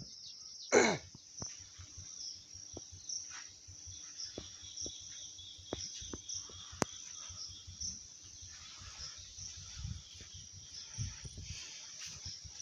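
Insects chirping in a steady high trill with a regular pulse. About a second in there is one brief, loud call that falls in pitch, and scattered clicks and low bumps come later.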